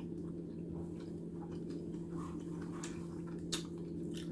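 A person chewing a mouthful of stuffed zucchini, with scattered soft mouth clicks and one sharper click about three and a half seconds in, over a steady low hum.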